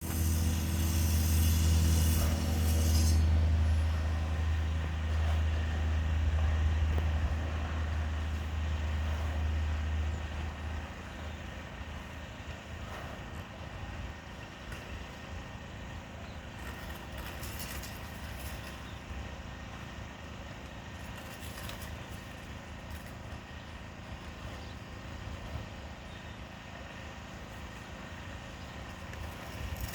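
Garage door running, with a steady low motor hum that stops about ten seconds in, leaving a quieter background hiss.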